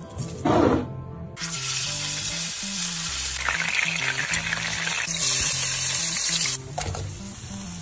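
Food sizzling as it fries in hot oil in a pan: turmeric-coated chicken pieces, then chopped red ingredients. The sizzle starts about a second and a half in and cuts off near the end, after a brief squelch of the chicken being mixed by hand in a steel bowl. Background music plays underneath.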